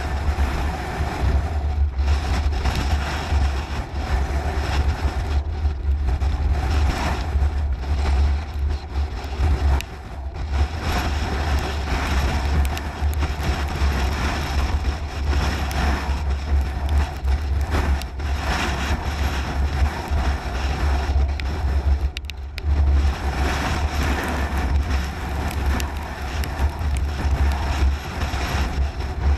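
Strong gusting wind buffeting the microphone: a deep, continuous rush that swells and dips irregularly.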